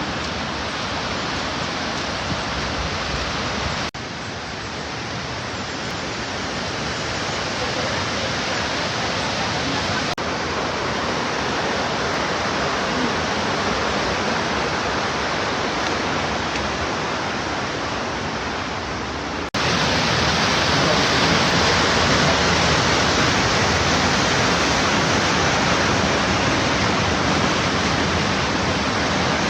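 Rushing river water: a steady, dense roar of fast-flowing water over rocks. It shifts abruptly in loudness at a few hard cuts, becoming louder about two-thirds of the way through.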